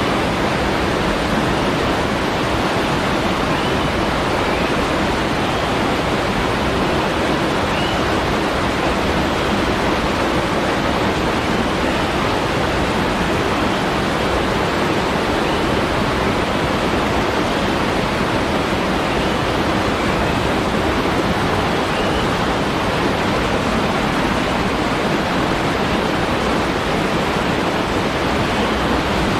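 Steady, unbroken rush of a waterfall, falling water hissing evenly.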